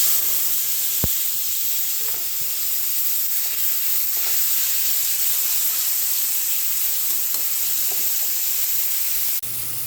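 Garlic, onion and tomato sautéing in hot oil in a pan: a steady sizzle, with a few light stirring strokes and one sharp click about a second in. The sizzle drops suddenly shortly before the end.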